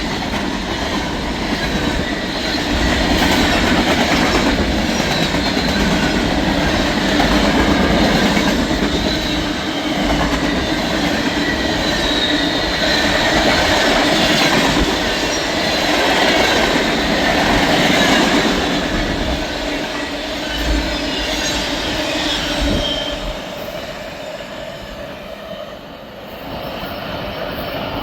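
Fast freight train's cars rolling past at speed: a steady, loud rumble and rattle of steel wheels on rail, with thin high wheel squeals over it. The sound eases somewhat about three-quarters of the way through, then picks back up.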